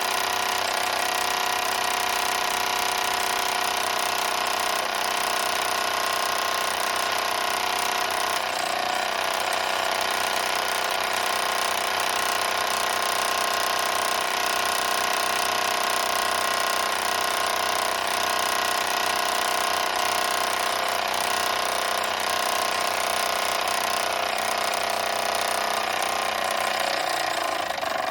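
Mamod SE1 toy steam engine running fast with a rapid, steady mechanical chatter, working as it should; near the end it slows slightly.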